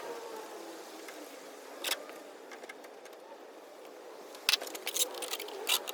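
Sharp clicks and clinks of metal tools: one about two seconds in, then a quick run of them near the end, over a steady background hum.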